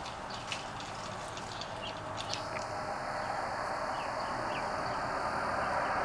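Small birds chirping in short, quick notes for the first couple of seconds, over the noise of a passing vehicle that grows steadily louder.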